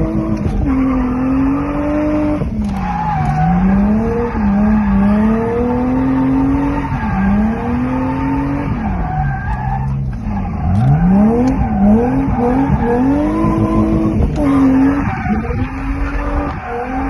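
BMW 323ti Compact's straight-six engine, heard from on board, revving up and falling back over and over as the car is driven sideways in a drift, with tyres squealing and skidding.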